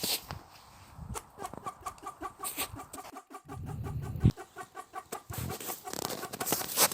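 A bird calling in a fast run of short repeated notes, about five a second, mixed with scattered sharp clicks.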